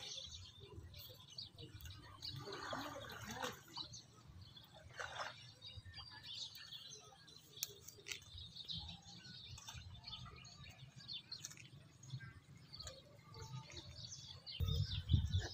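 Small birds chirping in the background over a faint low rumble. The rumble swells briefly near the end.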